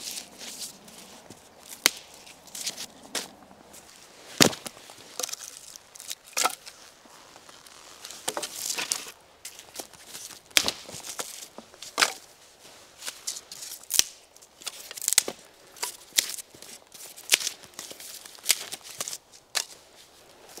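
Dry dead branches being snapped and broken by hand: a long run of sharp, irregular cracks, a few of them loud, with rustling and crunching of twigs and forest litter in between.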